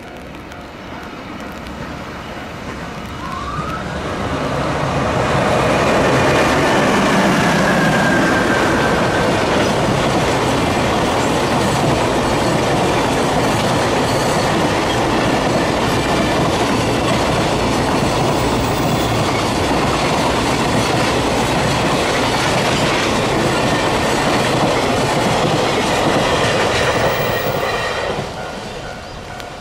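Freight train hauled by an EH500 electric locomotive passing. The noise builds over the first five seconds or so, holds loud and steady for about twenty seconds as the wagons roll by, and falls away near the end.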